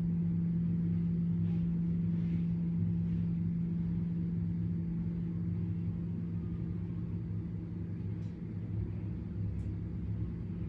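A steady low hum with a rumble beneath it, holding one pitch throughout, with a few faint short ticks over it.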